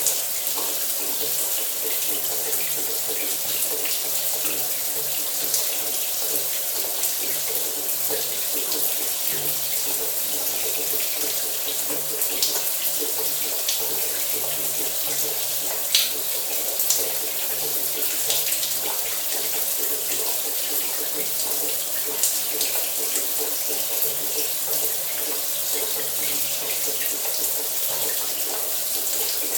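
Shower running steadily: a continuous hiss of spray hitting the floor and tub, with scattered sharper splashes of individual drops, one a little louder about halfway through.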